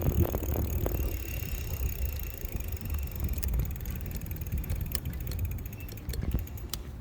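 Electric bike riding with wind rumbling on the microphone and a faint steady whine. From about halfway through, a fast even ticking comes in.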